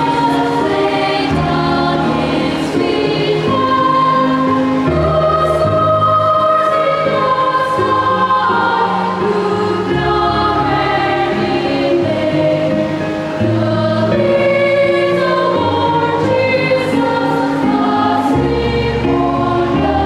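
A children's choir singing a Christmas carol with instrumental accompaniment, sustained notes changing every second or so.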